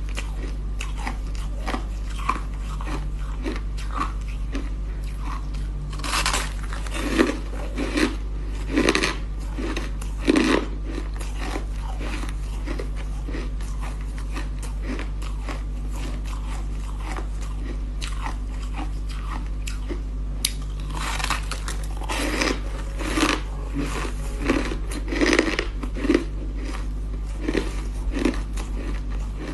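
Ice being bitten and chewed, a rapid run of crunches with quieter chewing between them; the loudest crunching comes in two bouts, about six seconds in and again from about twenty-one seconds. A steady low hum runs underneath.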